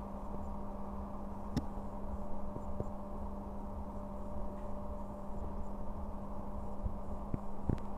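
Passenger train starting slowly out of the station, heard from inside the first carriage: a steady electrical hum over a low rumble, with a few sharp knocks about a second and a half in, near three seconds and near the end.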